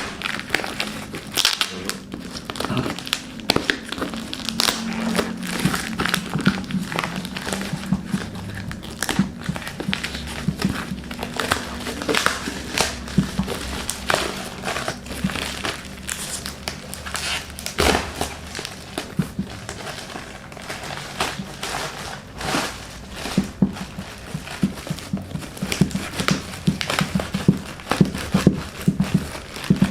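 Parcel packaging being handled and unwrapped by hand: irregular crinkling, rustling and crackling.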